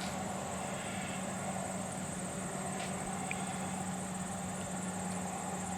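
Outdoor ambience: a steady high-pitched insect trill over a low, even hum and faint background noise.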